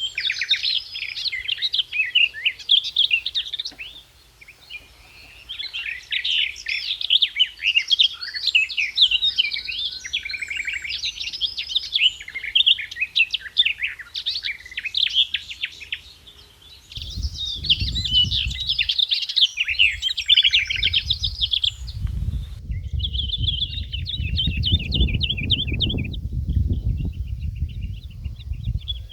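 Songbirds singing, a busy chorus of rapid chirps and trills. A low rumble joins about two-thirds of the way in and runs on under the birdsong.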